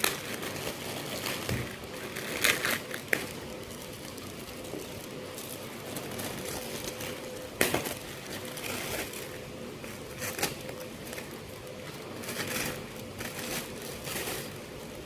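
Plastic bag crinkling and rustling as it is handled and worked open, with a few sharper crackles about two and a half and seven and a half seconds in.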